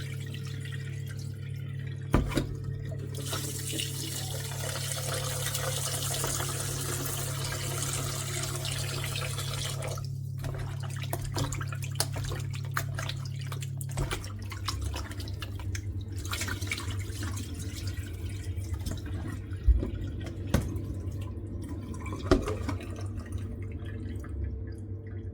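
Raw chicken being rinsed under a kitchen tap: water runs into the sink from about three seconds in until about ten seconds in, then splashing and knocks of the pieces being handled in the sink, with a few sharper knocks near the end. A steady low hum underneath.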